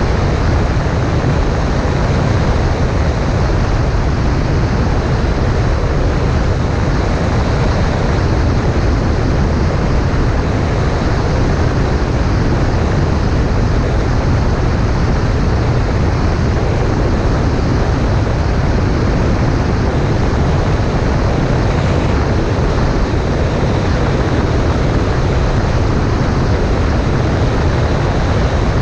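Cessna 140A light airplane in flight: a steady, unchanging drone of engine, propeller and rushing air, heaviest in the low end.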